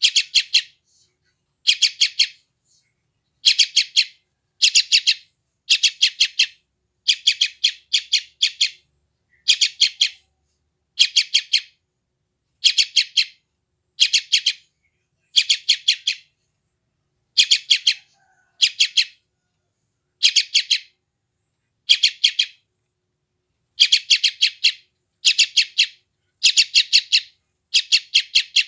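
A yellow-vented bulbul (trucukan) chick calling insistently. It gives short bursts of rapid, high chirps about once a second, over and over, in the manner of a hungry chick begging.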